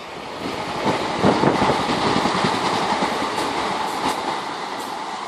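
Electric multiple-unit passenger train passing, its wheels clicking over the rail joints. The sound swells about half a second in, is loudest over the next few seconds and fades toward the end.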